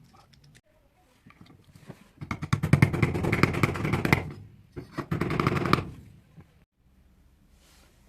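Two bursts of rapid rattling clatter, the first about two seconds long and the second about a second.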